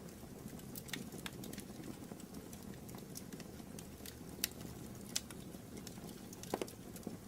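Wood fire crackling in a fireplace: a steady low rustle of flames with scattered sharp pops, three louder ones in the second half.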